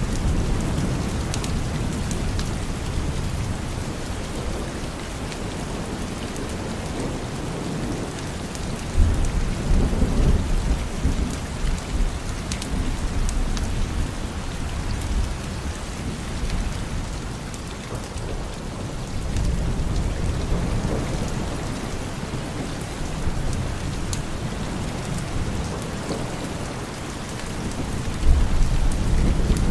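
Steady rain falling, with thunder rumbling in the distance: a louder roll about nine seconds in and another near the end.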